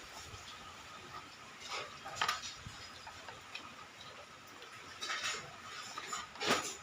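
Light kitchen clatter of utensils against dishes and cookware: scattered clicks and short scrapes, the loudest one near the end.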